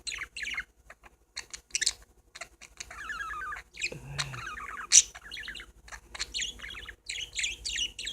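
Pet parakeets chattering and warbling in quick, overlapping chirps, with a few sharp high tweets; the loudest is about five seconds in.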